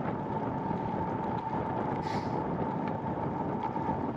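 Steady wind rush and road noise from a moving bicycle, with a steady high-pitched tone under it and a short hiss about two seconds in.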